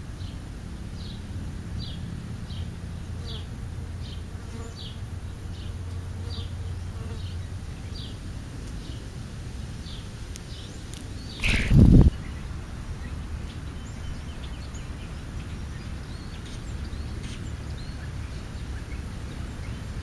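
Small birds chirping in short high notes about once a second through the first half, with one brief loud rushing buzz close to the microphone a little past the middle.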